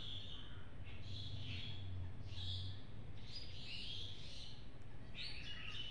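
Birds chirping over and over in the background, with a low steady hum underneath for the first few seconds.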